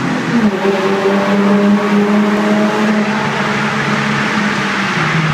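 Ford Mustang engine running loud inside a road tunnel, heard from the car's cabin. The engine note drops in pitch about half a second in, holds fairly steady, then drops again near the end.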